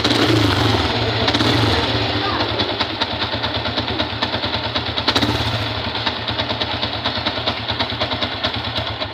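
Yamaha Sniper 150's single-cylinder four-stroke engine idling with a rapid, steady rattling tick. The uploader describes this as a noise that is loud at idle and goes away with revs, and thinks it may be a worn clutch damper.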